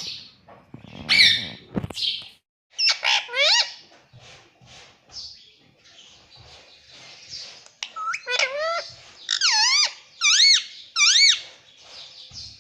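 Ring-necked parrot calling: a couple of harsh squawks, then runs of shrill pitched calls that rise and fall, ending in a few arching calls near the end.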